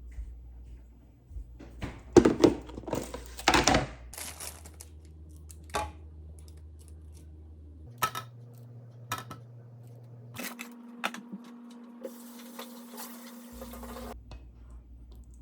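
Dishes and cutlery clattering on a table: a quick cluster of loud clinks and knocks two to four seconds in, then single sharp clinks every couple of seconds over a low room hum.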